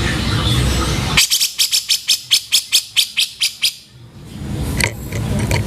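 Cucak jenggot (grey-cheeked bulbul) calling roughly. A dense, rasping sound gives way about a second in to a fast run of around fifteen sharp notes, about six a second, which stops a little before the four-second mark. The rasping sound resumes near the end.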